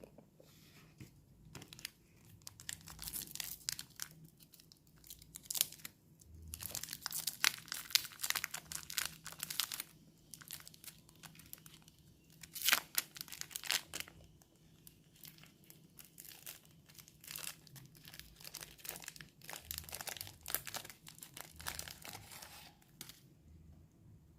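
Wafer-sweet wrappers crinkling and tearing in irregular bursts, with some crunching.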